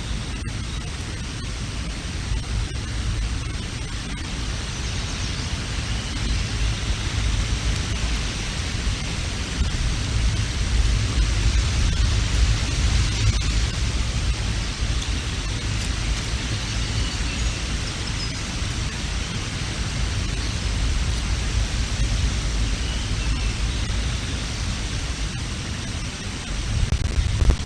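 Strong wind buffeting an outdoor microphone: a steady low rumble under a rushing hiss, growing a little louder about ten seconds in.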